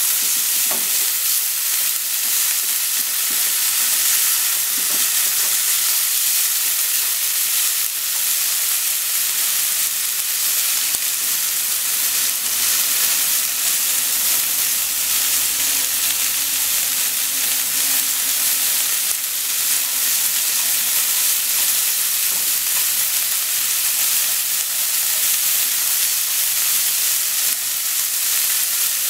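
Sliced negi and small pieces of meat sizzling steadily in a hot non-stick frying pan, stirred with long wooden cooking chopsticks.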